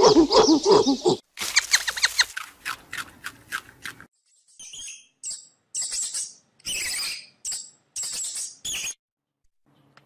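A rhythmic, pitched animal call cuts off about a second in. Then a hamster squeaks: quick runs of short, high-pitched squeaks in several separate bursts, stopping about a second before the end.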